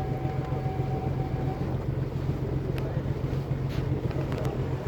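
Ferry boat's engine running steadily with a low, even hum, with wind buffeting the microphone.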